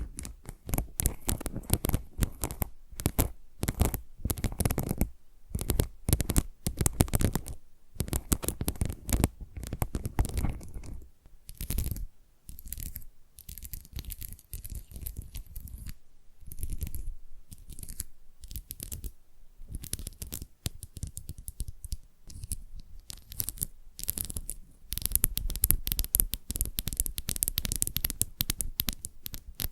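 Fingernails scratching and tapping on a tile in quick, dense strokes. The strokes thin out and grow quieter through the middle, then become dense and loud again near the end.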